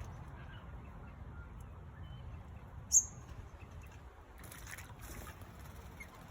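Bird calls: a single short, sharp high chirp about three seconds in, with fainter brief calls, over a low, steady background rumble.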